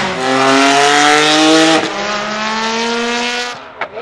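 Straight-piped twin-turbo 3.8-litre flat-six of a Singer DLS Turbo accelerating hard, its pitch rising through the revs, with an upshift a little under two seconds in and then a second rising pull. Near the end the engine note drops off and there is a short, sharp crack.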